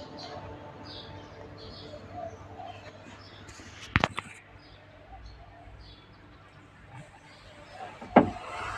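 Birds chirping, with a sharp knock about four seconds in and another, louder one near the end.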